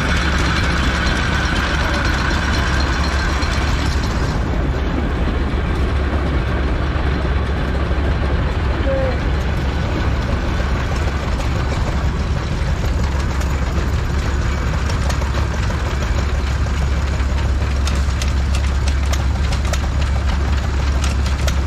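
A vintage stationary engine running steadily at idle, with a constant low rumble.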